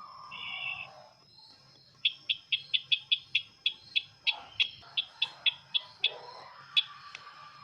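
Call of the sisintar ladang bird, as used to lure birds. A short phrase comes first, then about two seconds in a quick run of about fifteen sharp, high chirps, roughly four a second, which stops about six seconds in.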